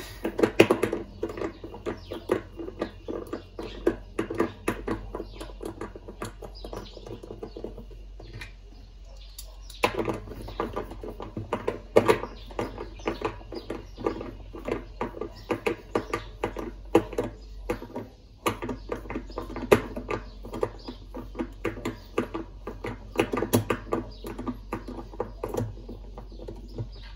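Irregular clicking, knocking and scraping of hand work on washing-machine parts, with a short pause about eight seconds in.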